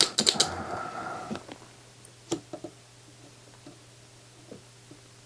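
A few light clicks and taps of handling in a quiet room over a faint low hum. The clicks come as a cluster at the start and then sparsely.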